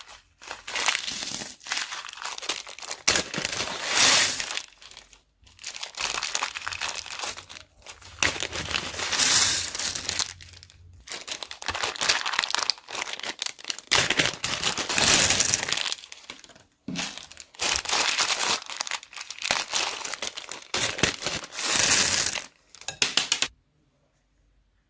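Plastic bags crinkling as they are squeezed and handled, in repeated bursts of a second or two, stopping shortly before the end.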